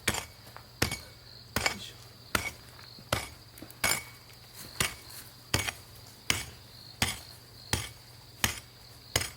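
A digging tool striking stony ground over and over in a steady rhythm, about thirteen strokes at roughly three-quarters of a second apart, with a steady high insect buzz behind.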